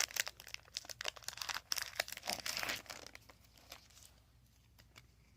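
Foil Pokémon card booster pack wrapper being torn open and crinkled in the hands, a dense crackling that dies away about four seconds in.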